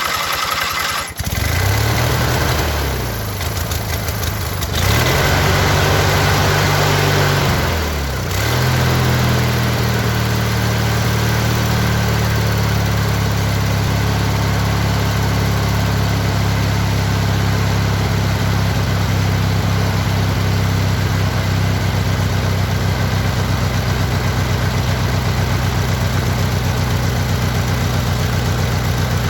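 Montgomery Ward lawn tractor's small engine running. Its speed rises and falls for the first several seconds, then it settles to a steady run.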